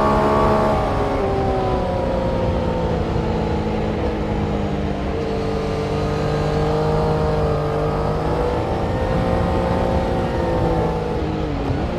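Several vehicle engines running at once at a race circuit. Their pitches hold or drift slowly rather than sweeping sharply past, with a brief dip and recovery in pitch near the end.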